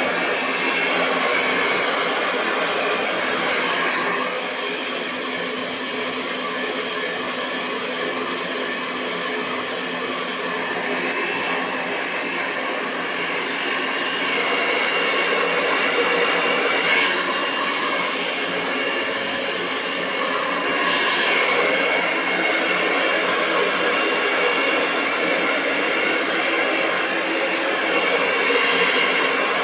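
Hair dryer running continuously: a steady rush of air over a faint motor whine, its loudness easing and swelling slightly.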